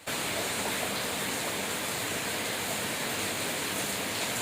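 Steady, even rushing noise of a storm sound effect, heavy rain and wind, coming in suddenly and holding at one level.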